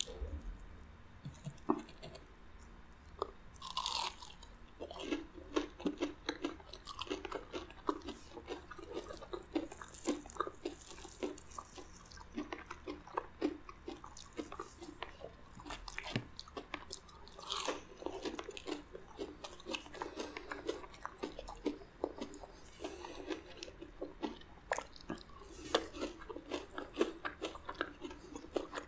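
Close-miked chewing and crunching of a crunchy crumb-coated fried mozzarella stick: many irregular crisp crackles from the breading as it is bitten and chewed.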